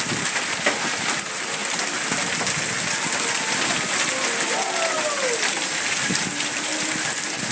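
Thunderstorm rain falling steadily: an even hiss with no let-up.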